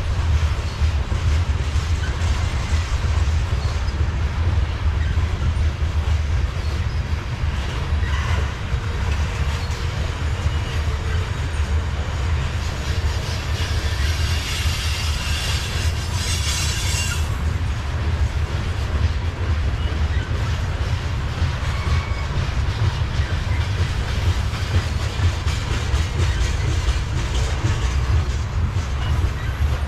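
Freight train of covered hopper cars rolling past: a steady heavy rumble with wheels clicking over the rail joints. A high metallic wheel squeal rises over it for about four seconds near the middle.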